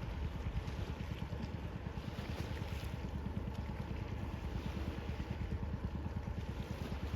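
Steady rush of the sea and wind, with a low rumble of wind buffeting the microphone.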